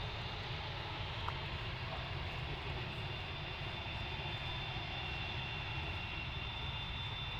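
Jet aircraft engines running steadily: a high whine over a low rumble.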